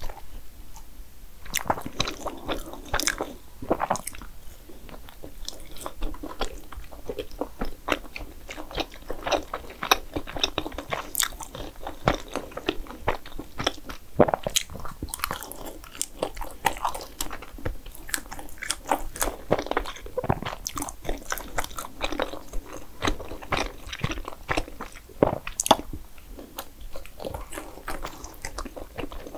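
Close-miked eating of dessert: steady chewing with frequent short, crisp crunching clicks throughout.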